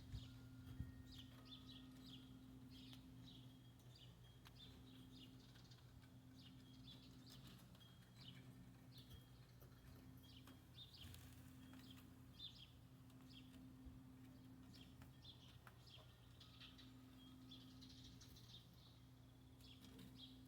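Near silence: faint, short high bird chirps repeat throughout over a steady low hum.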